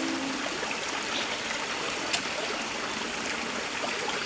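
Steady rushing of a rainforest stream flowing over rocks, with a single sharp click about two seconds in.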